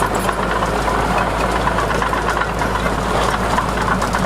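Heavy diesel engine of earthmoving machinery running steadily, with no change in pace.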